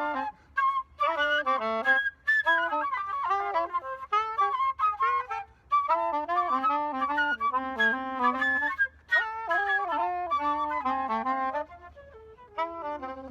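Woodwind instruments playing a lively tune in quick running notes, with short breaks between phrases; the playing drops quieter near the end.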